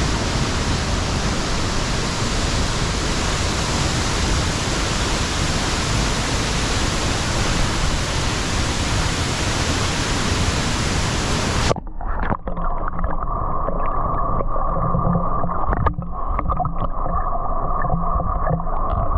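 Waterfall crashing into its plunge pool, a loud steady rush of water. About twelve seconds in the sound turns suddenly muffled and dull, the rushing now heard underwater with the camera submerged in the pool.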